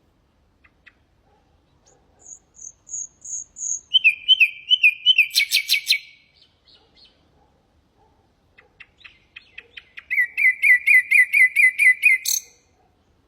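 Common nightingale singing two phrases. Each phrase is a run of fast repeated notes that builds up. The first phrase starts with high whistled notes and ends in a loud rapid rattle. The second ends with a string of evenly spaced notes and a final high note.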